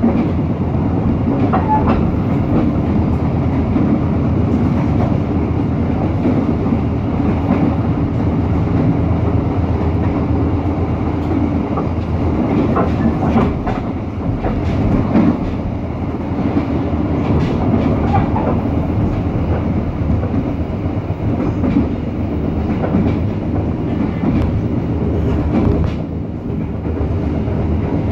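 Passenger train running at speed, heard from inside the carriage: a steady low rumble of the wheels and coach with a scattered clickety-clack over the rail joints.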